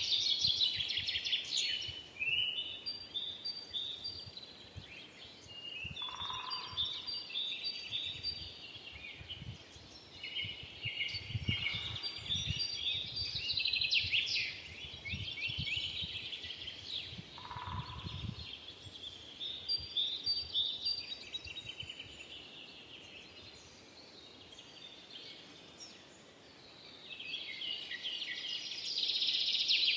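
Several forest songbirds singing together in overlapping bursts of quick chirps and trills, swelling and fading every few seconds. Twice a lower, softer single note sounds beneath them.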